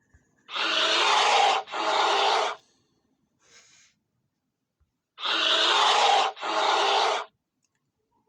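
Bear vocalising: two harsh, noisy two-part calls, each about two seconds long, with a faint short one between them.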